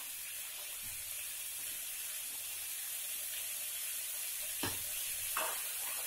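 Chopped raw green tomatoes sizzling steadily in oil in an aluminium kadhai, with two light clicks near the end.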